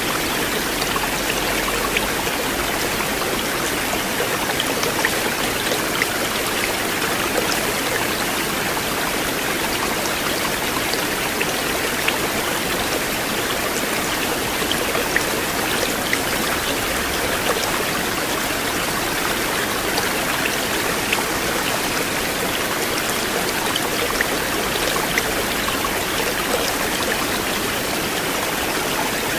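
River water flowing steadily, an even rushing with small splashes and drips scattered through it.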